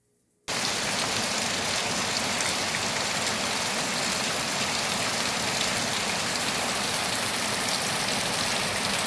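Steady heavy rain, a loud even hiss of falling water that starts abruptly about half a second in.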